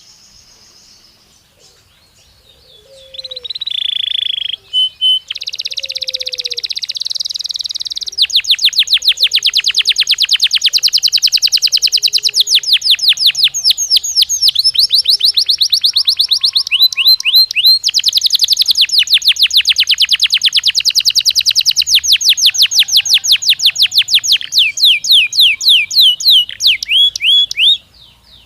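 Belgian canary singing: after a few quiet seconds a buzzy phrase, then long, loud runs of very fast repeated trilled notes that stop suddenly just before the end.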